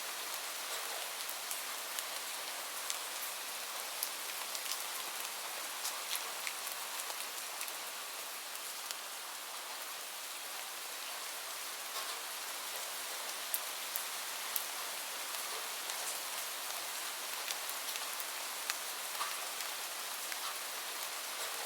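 Steady rain falling on a roof, with a fireplace crackling: scattered small sharp pops a few times a second over the even hiss.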